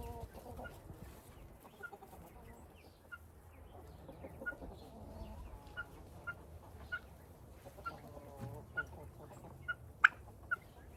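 Chickens clucking in a coop, with short high calls repeated every second or so. A sharp click about ten seconds in.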